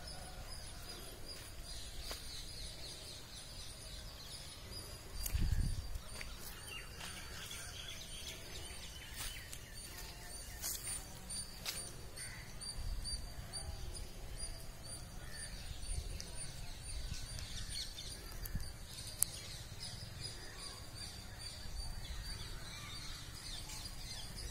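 Outdoor ambience: a bird's short high chirps repeated steadily over a low rumble, with one louder low thump about five and a half seconds in.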